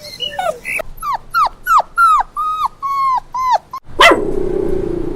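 A puppy yelping and whimpering: a rapid string of about nine short, high yips, each falling in pitch, about three a second. Near the end it breaks off and a sudden loud onset gives way to a steady low hum.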